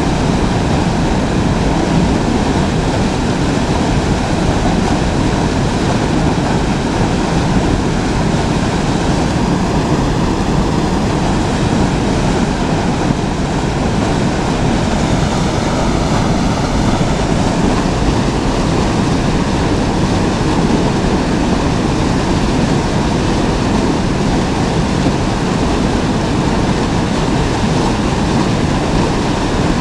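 Steady rushing of a fast-flowing river: loud, even water noise with no break.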